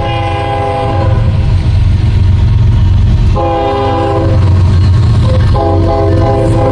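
Diesel freight locomotive's air horn sounding three blasts, one at the start, one about three and a half seconds in and one near the end, over the heavy, steady rumble of the locomotives' diesel engines passing close.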